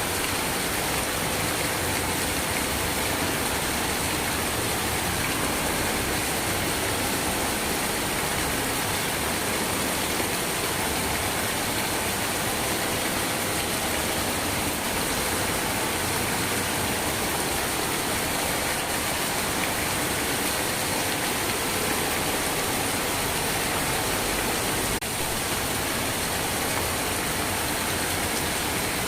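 Steady heavy rain, a dense, even hiss of falling rain with no distinct drops standing out.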